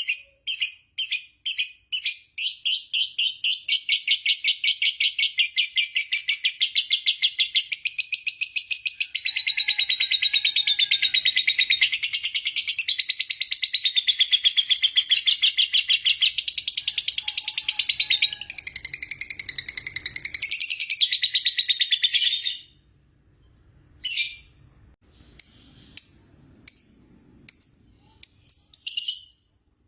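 Lovebird giving its long 'ngekek' song, a high, fast chattering trill. It starts as quick separate chirps, runs together into an unbroken trill for about twenty seconds, then breaks off into a few short chirps.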